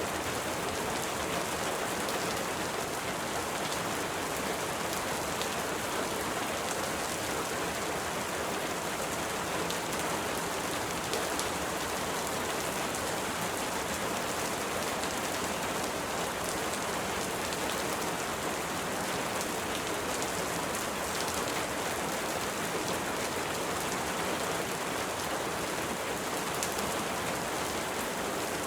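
Steady rain, its drops pattering evenly on a surface with faint scattered ticks of individual drops.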